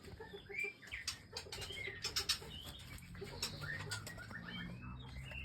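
Small cage birds giving short chirps and rising calls, mixed with quick wing flutters and sharp clicks, over a low steady hum.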